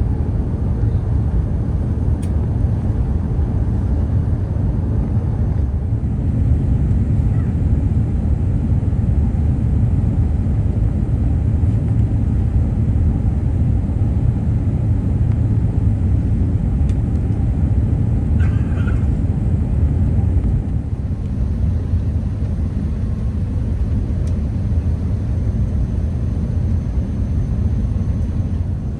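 Airbus A380 cabin noise on the approach: a steady low rumble of airflow and engines, easing slightly about twenty seconds in.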